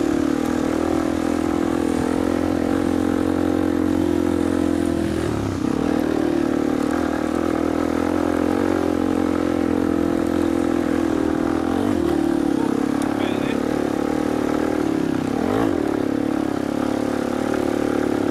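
Off-road motorcycle engine running at steady revs. The revs dip and rise again briefly twice, about five and a half seconds in and again just after fifteen seconds.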